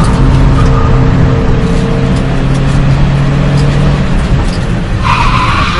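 Suzuki car engine heard from inside the cabin, running at steady revs on the move, with road and tyre noise; the engine note fades about four seconds in and a short higher hiss follows near the end.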